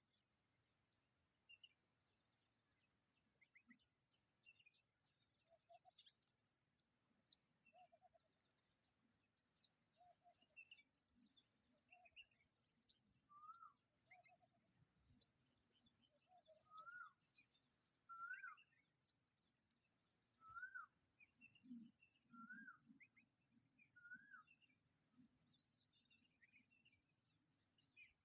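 Faint birds calling over a steady, high insect drone. One short note repeats about once a second for the first half, then a higher rising-and-falling note repeats every second or two, with scattered thin chirps above.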